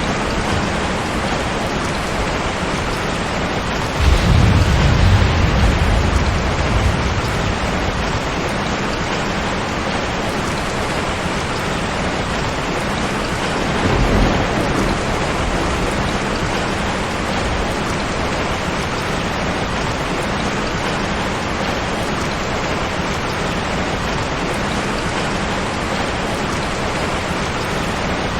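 Steady rain falling, with thunder rumbling: a sudden low roll about four seconds in that lasts several seconds, and a weaker one about halfway through.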